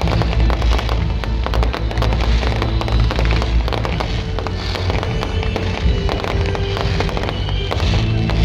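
Fireworks going off in quick succession, a dense run of bangs and crackles over a continuous low rumble.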